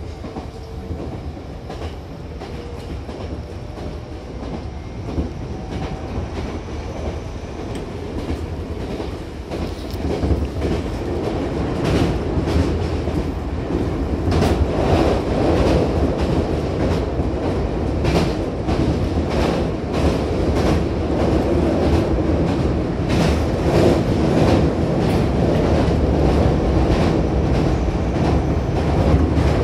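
Hankyu 8000-series electric train running, heard from inside the car by the doors: a steady running noise with wheels clicking over rail joints. It grows louder through the first half as the train gets up to speed.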